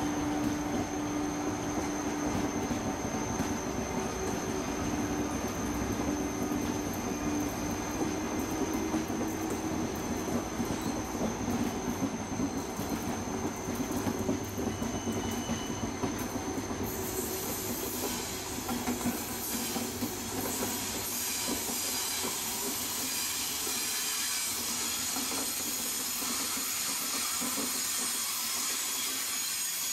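Thello passenger coaches rolling slowly past, the wheels clicking over rail joints against a steady tonal whine. About halfway through, a steady high hiss comes in and runs on as the train moves away.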